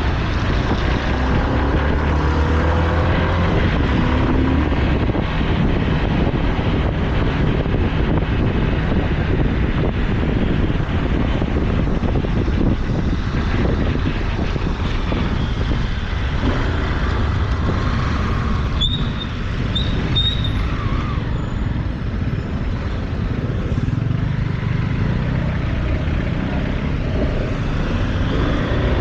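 Motorcycle on the move: a steady engine note under heavy wind and road noise, with the engine strongest near the start and near the end. A few short high chirps come about two-thirds of the way through.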